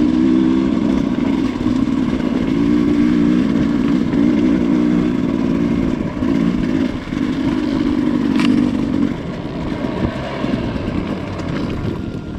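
Off-road motorcycle engine running under throttle, its note rising and dropping with throttle and gear changes. About nine seconds in it eases off to a lower, quieter running sound.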